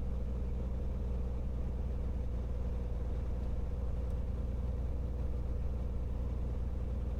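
Cirrus SR22T's turbocharged Continental six-cylinder engine and propeller idling steadily on the ground.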